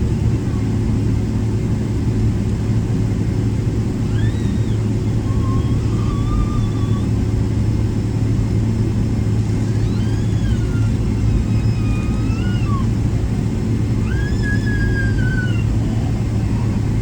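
Cabin noise of a Boeing 777-300ER taxiing, its GE90 engines at idle: a steady deep rumble with a constant hum. Three times a high squealing tone rises, wavers and falls, each lasting about two to three seconds.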